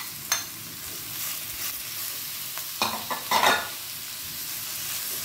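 Diced pork and pounded chili paste sizzling in a non-stick wok while a metal spatula stirs and scrapes them. A click comes just after the start, and a few louder scraping strokes come about three seconds in.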